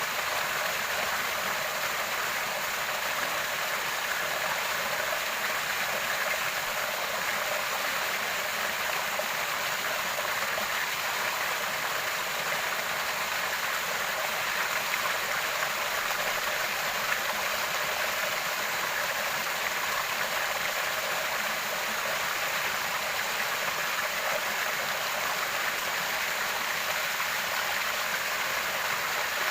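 Water flowing steadily with a constant, even splashing, like a small stream.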